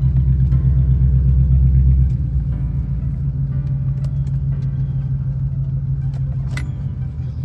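The supercharged V8 of a Jaguar XJR, heard from inside the cabin while driving: a deep, steady engine and exhaust rumble that is loudest for the first two seconds under throttle, then eases to a lower, even drone. A brief sharp high sound cuts in near the end.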